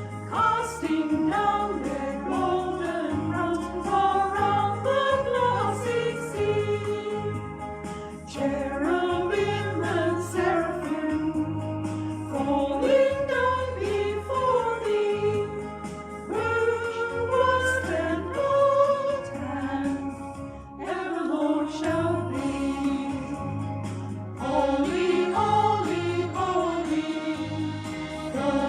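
Music: a hymn sung by a small group of voices over held low accompanying notes.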